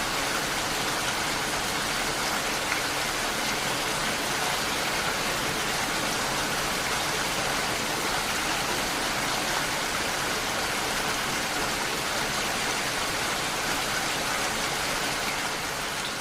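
Steady rain with raindrops pattering against window glass, a dense, even sound without any rhythm or change.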